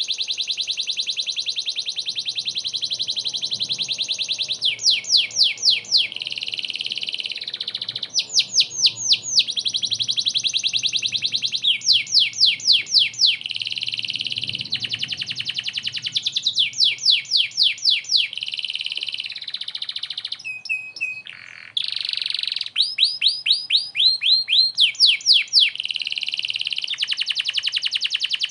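Domestic canary in full, continuous song: long stretches of fast, even trills alternate with phrases of quickly repeated sweeping notes, all high-pitched. There is a brief break in the song a little past two-thirds of the way in.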